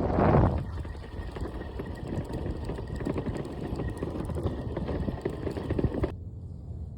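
Footsteps crunching and rustling through the forest floor, many small irregular crackles. A burst of wind buffets the microphone at the start, and the crunching stops abruptly about six seconds in.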